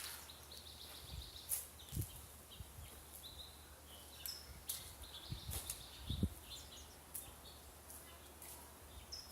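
Birds chirping now and then in the background, short high calls, with a few low thumps and light clicks near the microphone.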